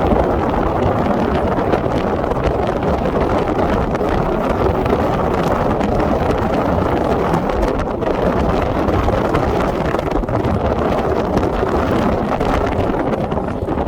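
Wind buffeting the microphone: a steady, loud rumbling rush with no distinct tones or sudden sounds.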